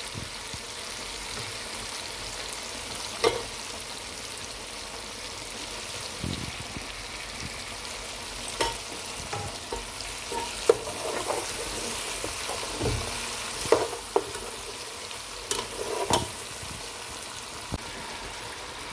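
Chicken pieces frying in a spiced tomato masala in a metal pot, a steady sizzle, with a metal spoon stirring and clinking against the pot now and then. This is the bhuna stage, the chicken being browned in the masala.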